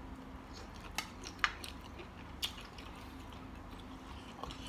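A person eating spicy mixed seafood salad: a few short, sharp wet clicks and smacks of chewing, faint, over a low steady hum.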